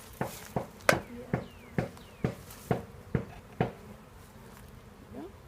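A run of about nine sharp, evenly spaced knocks, roughly two a second, then they stop; bees buzz faintly around them.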